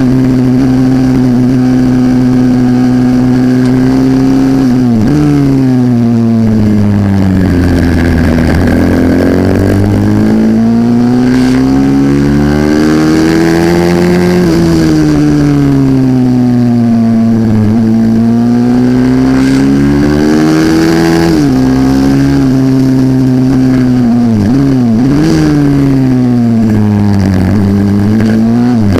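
A 140cc pit bike's single-cylinder four-stroke engine racing under full throttle. Its note holds high and steady at first, then falls away and climbs back several times as the throttle is shut and opened through corners, with quick blips near the end, and it drops to a lower note at the very end.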